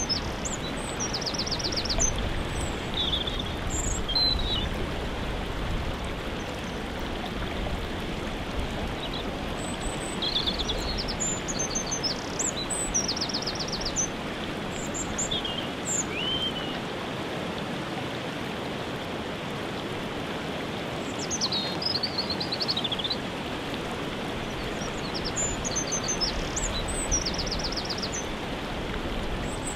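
Waterfall rushing steadily, with small birds singing over it: short high chirps and quick trills every few seconds.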